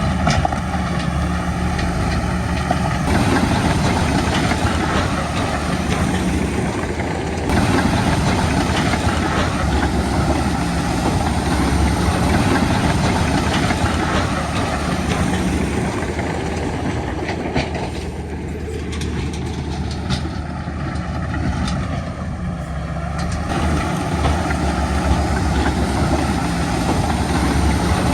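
Heavy diesel earth-moving machinery running steadily under load, a bulldozer or dump truck engine with a low drone. The sound shifts abruptly a few times, about 3, 7 and 23 seconds in.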